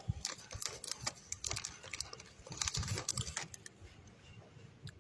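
Irregular small clicks and rustles close to the microphone, busy for the first three seconds or so and then thinning out.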